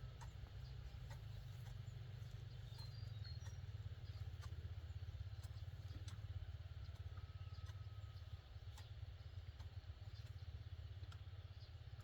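Steady low rumble with faint scattered clicks and ticks over it.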